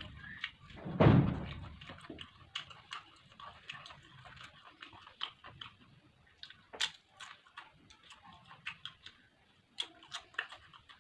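A heavy thump about a second in, then scattered soft clicks and taps, the sound of food and dishes being handled close to the microphone.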